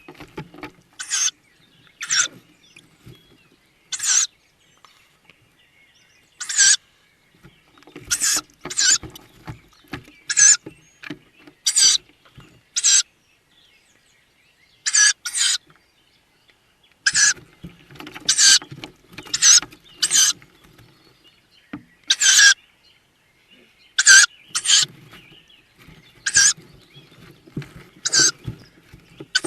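Tawny owl chicks giving short, wheezy hissing calls, the typical begging call of tawny owl nestlings, about one every second or two with a few short pauses. Between the calls there is scratching and rustling as they move about in the nest box.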